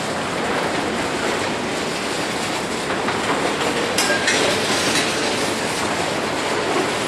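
Intermodal freight train of flatcars loaded with truck trailers and containers rolling past, a steady heavy rumble and rattle of wheels on rail, with a brief high metallic screech about four seconds in.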